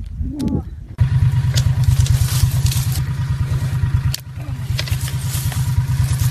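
A vehicle engine running steadily, a low pulsing rumble that starts abruptly about a second in, after a brief call-like sound whose pitch rises and falls.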